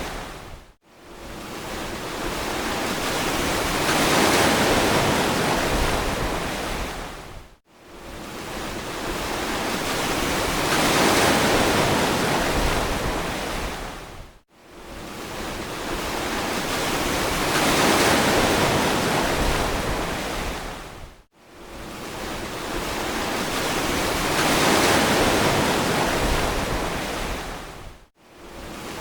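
Ocean surf: waves washing in and drawing back in a steady cycle about every seven seconds. Each wave swells up and dies away, dropping briefly to almost nothing before the next one.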